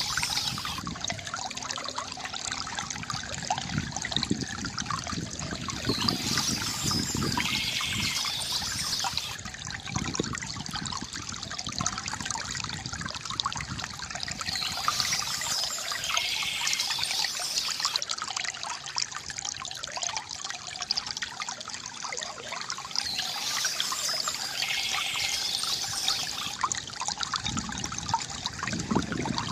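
Small stream trickling and splashing over stones. A short bird song phrase recurs about every eight to nine seconds, three times.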